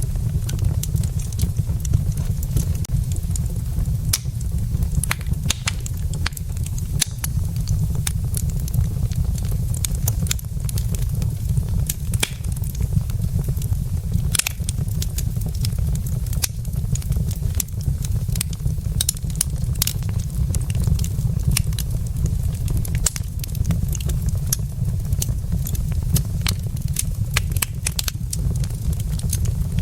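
Wood logs burning in a fireplace, crackling and popping with many sharp, irregular snaps over a steady low rumble.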